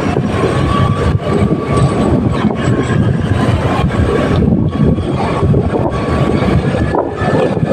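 Motorcycle running on the road with a steady low rumble.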